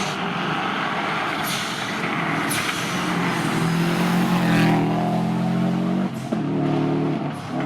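Subaru Legacy rally car's flat-four boxer engine at high revs, pulling hard, its pitch climbing steadily. Near the end the revs drop sharply twice for a moment and pick up again.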